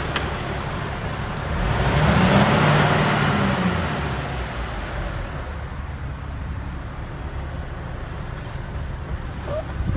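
Iveco Stralis 460 tractor unit's diesel engine running, swelling louder with a low drone for a couple of seconds around two seconds in, then easing back to a steady run.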